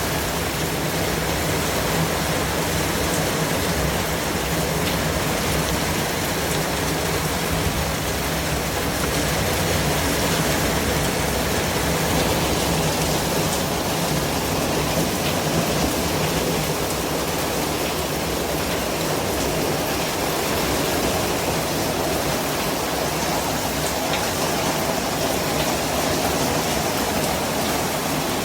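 Steady white noise: an even, unbroken rush across all pitches, drifting only slightly in tone.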